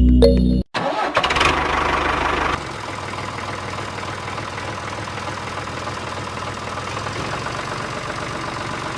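A motor running steadily, louder for its first couple of seconds and then settling to a lower, even level. Background music cuts off just under a second in.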